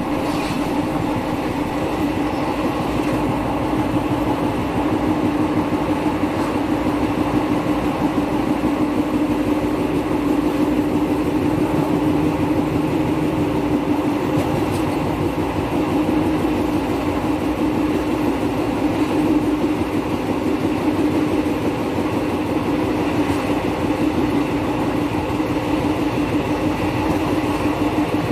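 Passenger train running at speed, heard from an open carriage door: a steady rumble of wheels on the rails with a constant low hum.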